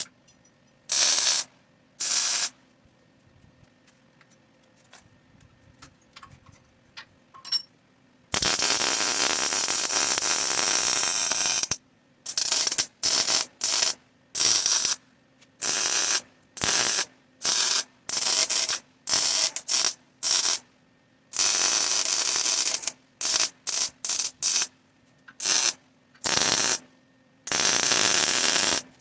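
Welder laying tack welds on exhaust header tubing in a series of short bursts. Each burst starts and stops sharply, and one longer bead of about three and a half seconds comes about a third of the way in.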